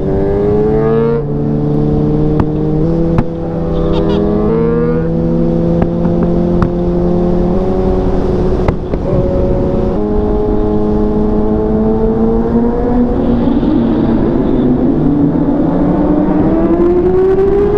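Sportbike engine running under way, its pitch holding steady and stepping between gear changes several times, then climbing slowly near the end, over a steady rush of wind noise.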